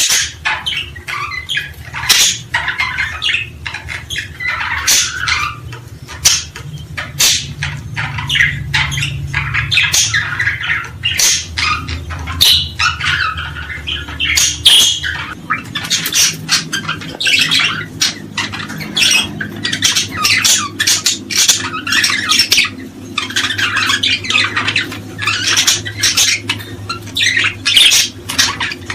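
A dense chorus of many small birds chirping and calling in quick, overlapping, sharp notes.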